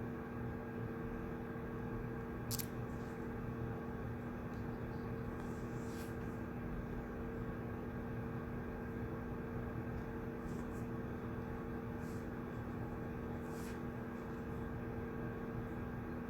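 Study-room ambience: a steady room hum with two low tones under it, and a few faint, short clicks and rustles scattered through.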